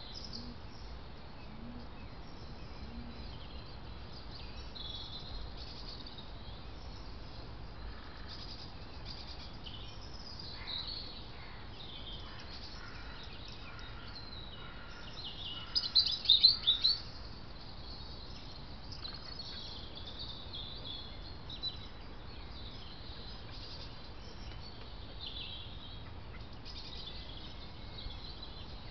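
Woodland birds singing and calling over a steady background hiss, with a short burst of loud, rapid chirps about halfway through.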